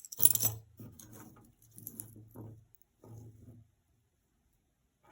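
Costume jewelry being handled: a sharp clatter of metal pieces near the start, then softer rattling and rustling in a few short spells.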